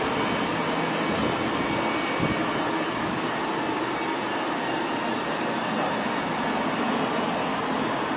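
Electric multiple-unit commuter train running past along the platform: a steady rumble and hiss of wheels on rail, with a single low knock about two seconds in.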